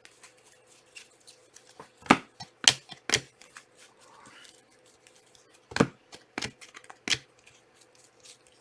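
Trading cards being handled and set down on a table: a series of sharp snaps and taps, a few in quick succession, with a brief soft rustle of card or wrapper in the middle.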